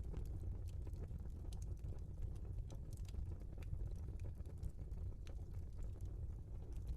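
Burning logs crackling: irregular sharp pops and snaps over a steady low rumble of the fire.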